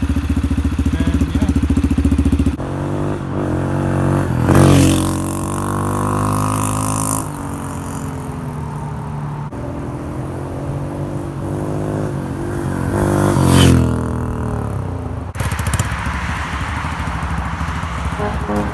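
2004 Yamaha TT-R125's single-cylinder four-stroke engine being ridden through its stock exhaust with the baffle spaced out on washers, giving a deeper note. The revs rise and fall, swelling loudest twice, about four and a half seconds in and again near thirteen and a half seconds, and the sound cuts abruptly between shots.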